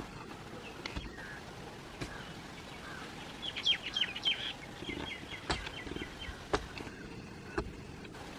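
Small birds chirping, with a quick run of high chirps about halfway through and a few scattered sharp clicks over steady outdoor background noise.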